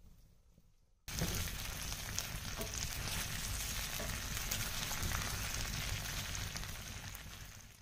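Sliced potatoes and onions sizzling in oil in a cast-iron skillet on a wood-burning stove, while a wooden spoon stirs them. The sizzle starts suddenly about a second in, after a faint crackle from the fire, and fades out at the very end.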